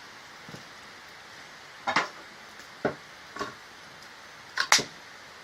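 Firewood burning, crackling with a handful of sharp, scattered pops over a low steady hiss, the loudest pop near the end; the kind of popping that throws sparks.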